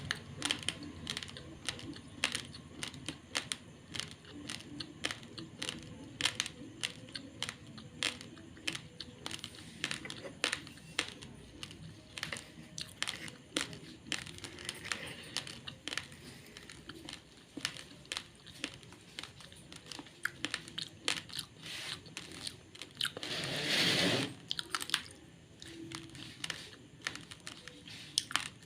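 Raw, uncooked basmati rice being chewed close to the microphone: rapid, irregular sharp crunches of dry grains cracking between the teeth. There is a louder, longer rush of noise about three-quarters of the way through.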